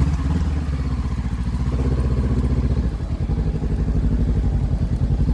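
Motorcycle engine running while riding, a steady pulsing exhaust note that jumps up in loudness right at the start.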